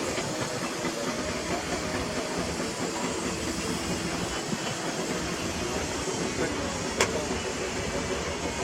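Heavy diesel machinery running steadily, a hissing engine drone, with one sharp clank about seven seconds in.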